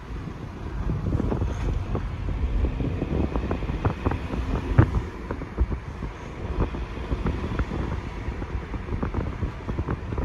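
Wind buffeting the microphone of a moving vehicle over a low road rumble, with scattered short knocks and rattles.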